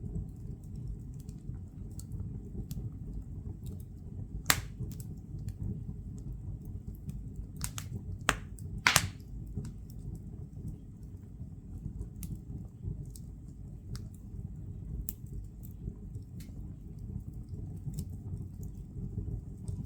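Firewood burning in a fireplace: a steady low rumble of the fire with scattered crackles and a few sharp pops, the loudest about four and a half seconds in and a small cluster around eight to nine seconds in.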